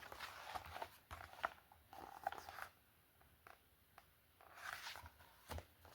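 Faint rustling and a few small clicks of a paper book being handled, as a page is turned.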